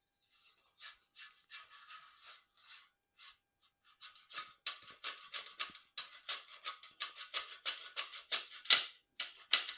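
Short rasping strokes, several a second, growing louder about four seconds in: a shift cable and its housing scraping as they are pushed and worked through the bike frame.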